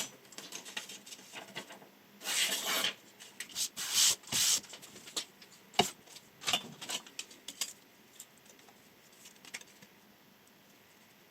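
Chef knife blade rasping through a test cut in two drawn strokes, then a single sharp knock about halfway through and a few light ticks before the sounds die away.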